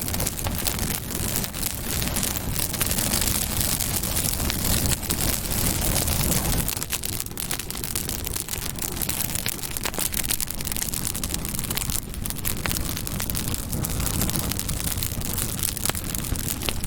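Campfire burning: wood crackling with many sharp pops over a steady hiss of the flames and a low rumble that eases off about seven seconds in.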